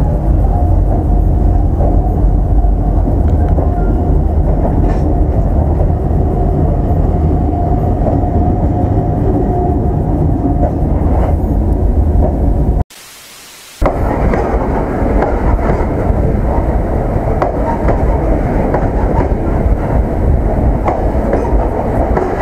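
Freight train rolling, heard from the gap between two open-top gondola wagons: a loud, steady rumble of wheels on rail. About halfway through it drops out sharply for about a second, then comes back rougher and brighter.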